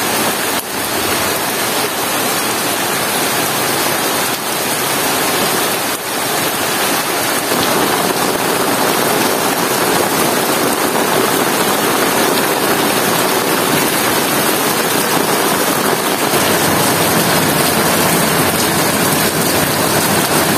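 Heavy rain pouring down steadily, a dense, even hiss of rain on foliage and ground.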